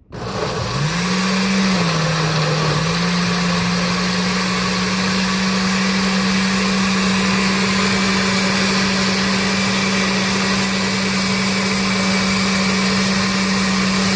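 Countertop blender motor starting up and running steadily at high speed, blending a liquid shake of milk, ice cream and condiments. Its pitch dips briefly about two seconds in, then holds steady.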